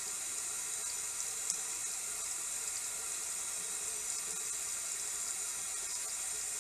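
Bathroom sink tap left running, a steady even hiss of water into the basin.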